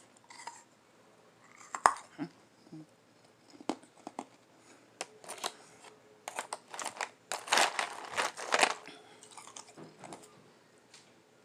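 A person biting and chewing lime-flavored ice, with soft crunches close to the microphone: scattered crackles at first, the sharpest about two seconds in, then a dense run of crunching a little past halfway that tails off.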